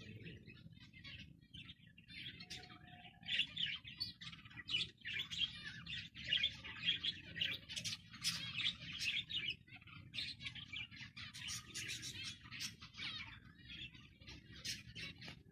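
Zebra finches chirping and calling in a dense, continuous flurry of short calls, busiest from about four to ten seconds in, over a low steady hum.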